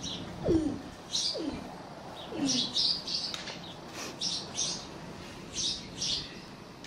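Small birds chirping: short high chirps at irregular intervals, with a few brief low falling sounds in the first couple of seconds.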